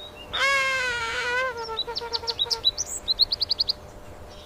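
A bird calling: one long call of about a second starts about half a second in, then a run of short high chirps follows, coming quickest about three seconds in.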